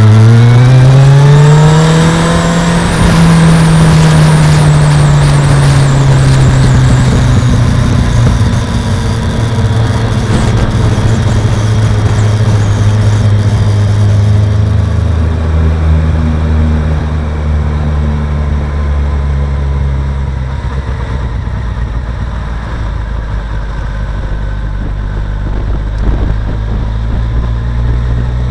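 Kawasaki ZZR1400's inline-four engine running hard as the motorcycle rides, its pitch climbing steeply for the first two or three seconds, then falling slowly and settling at a lower, steady pitch from about fifteen seconds in.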